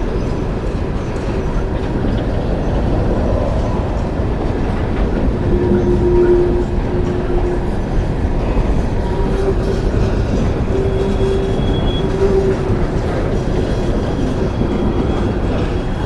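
A long coal train's cars rolling on the track: a steady rumble, with squealing tones from the wheels that come and go.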